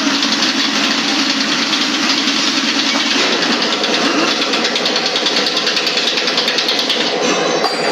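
Motorcycle engine running steadily with a rapid, even pulsing, its tone shifting about three seconds in.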